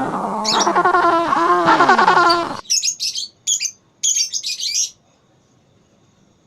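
A lower-pitched wavering sound with a sliding pitch for the first couple of seconds, then lovebirds chattering in four short, shrill bursts, stopping about five seconds in.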